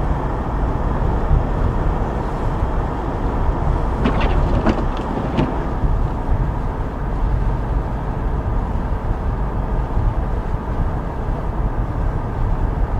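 A car driving on snowy streets: a steady low rumble of engine and road noise.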